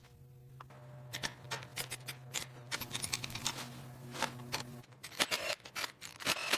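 Hand tools working on metal parts: irregular sharp clicks, taps and scrapes, over a low steady hum.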